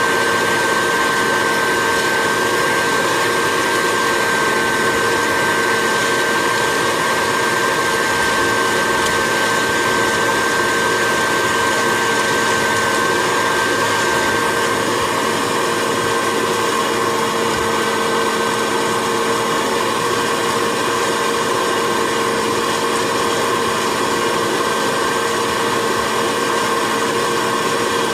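Hot-air popcorn popper used as a coffee roaster, its fan motor running steadily with a constant rushing of air and a steady whine; a higher whine fades out about halfway through.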